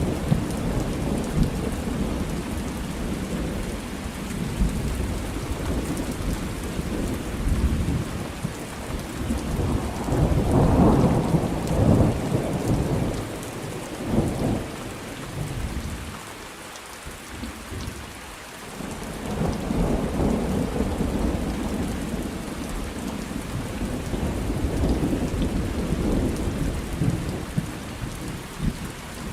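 Thunderstorm: steady rain falling with rolling thunder, the rumble swelling loudest about ten to twelve seconds in, easing off near the middle, then building again.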